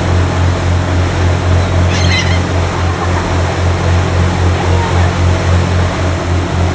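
Boat motor running with a steady low drone that pulses about three times a second, over wind and water noise; a seagull gives one short call about two seconds in.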